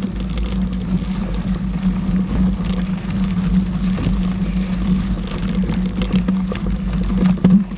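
Mountain bike riding along a trail, heard from a camera on the rider: steady rumble of tyres and wind on the microphone, with a few light rattles.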